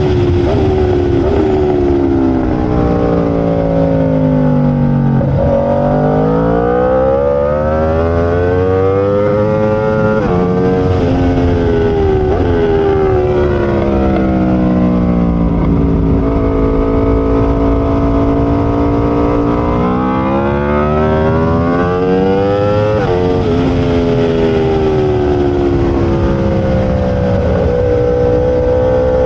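Aprilia RSV4 V4 superbike engine at racing speed, its pitch climbing and falling again and again as it accelerates and slows through the track, with several sudden breaks in the pitch at gear changes.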